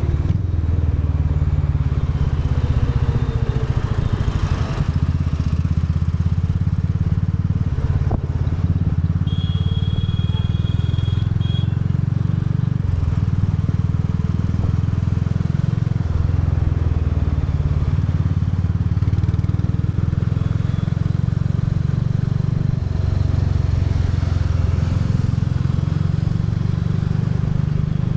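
Royal Enfield Bullet 350's single-cylinder engine running under way on the road, its note rising and falling several times. A brief high-pitched tone sounds about ten seconds in.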